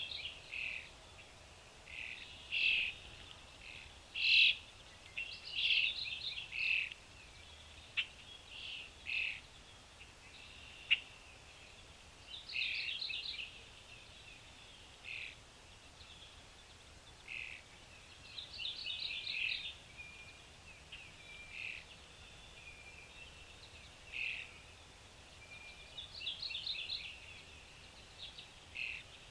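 Small birds chirping, with short calls and quick chattering runs coming irregularly throughout. A single sharp click sounds about eleven seconds in.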